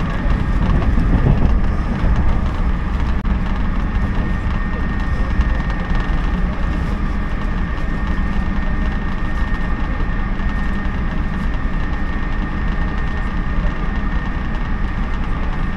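Cabin noise of a JNR 113-series electric train running and slowing as it pulls into a station: a steady low rumble of wheels and running gear, with a thin steady high tone above it.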